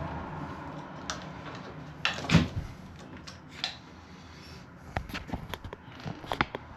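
Scattered clicks and knocks from handling a keypad deadbolt and door hardware, with one louder knock a little over two seconds in and a run of small clicks near the end.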